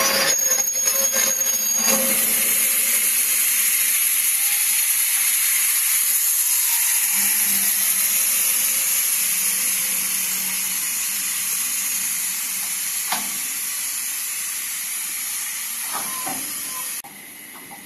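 Freight train of rail tank wagons rolling past close by: a steady rushing noise of steel wheels running on the rails, with a few sharp clacks late on. The sound drops off abruptly near the end.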